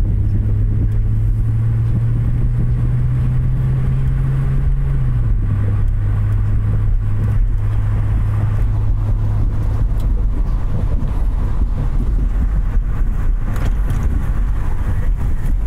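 2000 Honda Accord V6 engine running steadily with a low drone; its pitch drops slightly about five seconds in and then holds.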